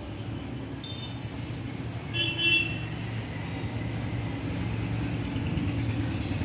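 An engine running steadily with a low hum, with a brief high-pitched tone a little over two seconds in.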